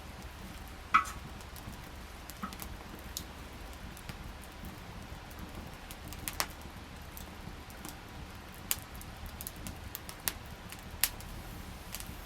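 Wood campfire crackling, with scattered sharp pops and snaps; the loudest pop comes about a second in.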